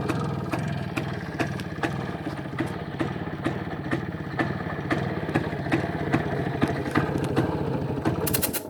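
IZh-56 motorcycle's single-cylinder two-stroke engine idling steadily, with sharp ticks through it. The sound cuts off suddenly near the end.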